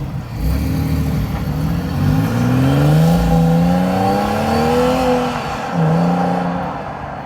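Car engine accelerating, its note rising for about three seconds, then dropping a little and holding steady near the end.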